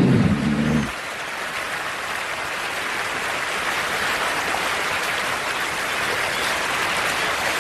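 Steady rush of shallow creek water over rocks, an even hiss. A low held musical note fades out about a second in.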